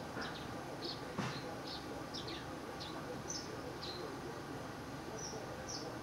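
Small birds chirping: many short, high chirps, some dropping in pitch, about two a second, over steady outdoor background noise. A single knock sounds about a second in.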